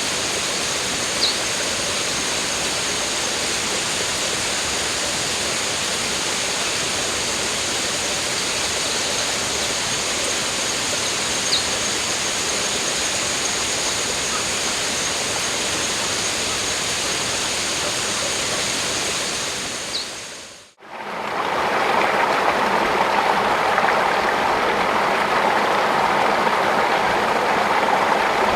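Water running steadily, with a thin, steady high tone above it and three short high chirps. About 21 seconds in, it fades out and gives way to a louder, steady rushing noise.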